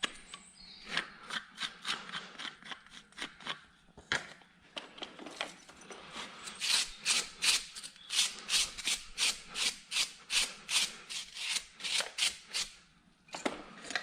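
A hand tool scraping a horse's hoof in repeated short strokes, irregular at first, then a steady run of about three strokes a second through the second half.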